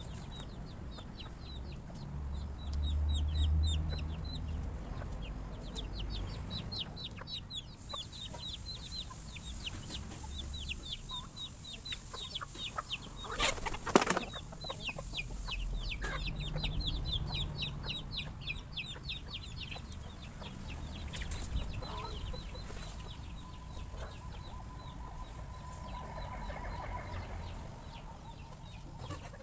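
A flock of chickens clucking, with long runs of rapid, high, short peeps and wings flapping now and then. There is a sharp click about fourteen seconds in.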